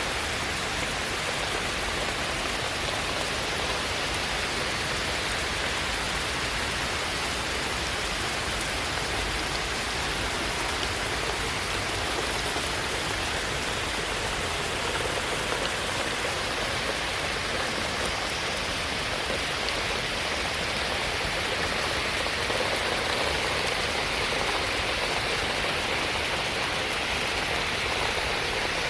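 Steady rain falling without a break, an even hiss with water running off.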